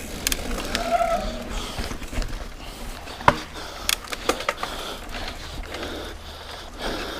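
Mountain bike being ridden over rough, sandy trail: a steady rumble of tyres and frame with sharp knocks and rattles from the bike as it hits bumps, the loudest knock about three seconds in.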